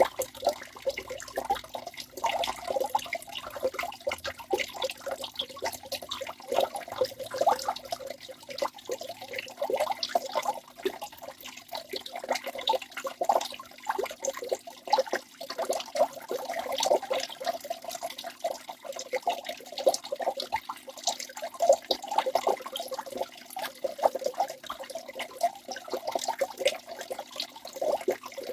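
Waterfall running steadily: a continuous splashing rush of falling water, made of many small irregular splashes, with little deep rumble.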